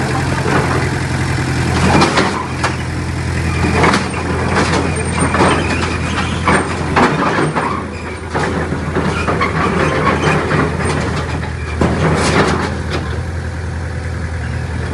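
Heavy diesel earthmoving machinery running steadily under load, with irregular clanks and crunching of rock and soil being pushed.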